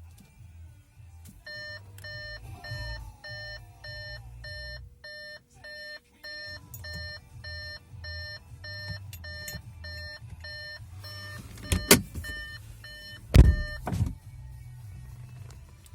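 Audi A5 cabin warning chime beeping evenly about twice a second over a low steady hum. Near the end come two loud thumps, and the chime stops right after the second.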